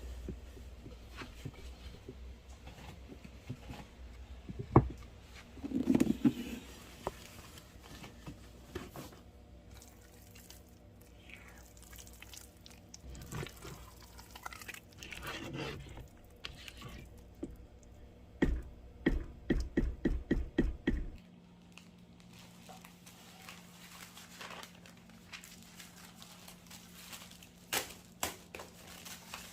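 Kitchen food-preparation handling sounds: scattered knocks and rustles, with a quick run of about ten knocks roughly two-thirds of the way through.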